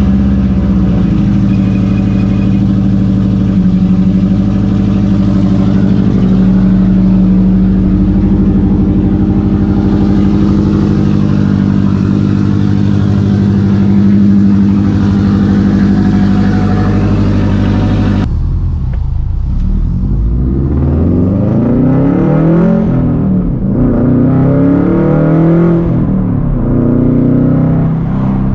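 Loud exhaust of a 2013 Subaru WRX STI's turbocharged 2.5-litre flat-four through a Tomei Expreme Ti titanium turboback exhaust and catless downpipe. It holds a steady note for the first eighteen seconds or so, then the revs climb and drop several times.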